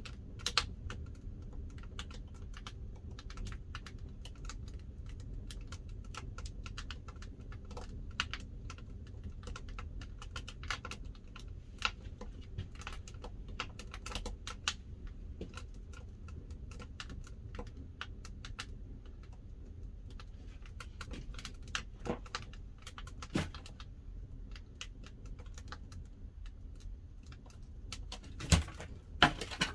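Pine firewood crackling and popping as it burns in a wood-fired pottery kiln: many small irregular snaps over a steady low rumble, with a few louder cracks near the end.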